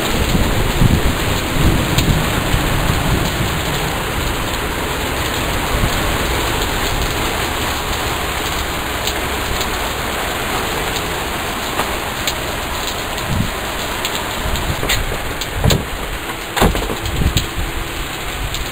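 Heavy rain pouring steadily in a thunderstorm, with a low rumble of thunder in the first few seconds. Several sharp taps come near the end.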